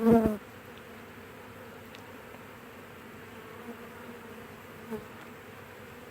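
Honeybee swarm buzzing, a steady low hum of many bees around the hive as they are moved in. A brief louder sound comes right at the start, with a smaller one near the end.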